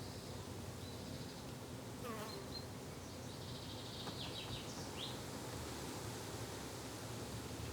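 Flying insects buzzing steadily, with a few short, high bird chirps about two and about four to five seconds in.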